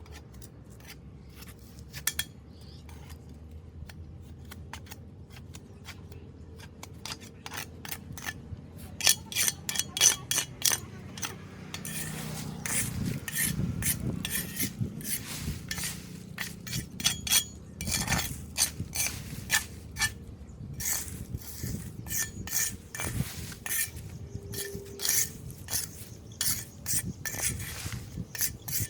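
Metal tool scraping and clinking against a drain grate while clearing debris, in irregular strokes that grow busier about nine seconds in.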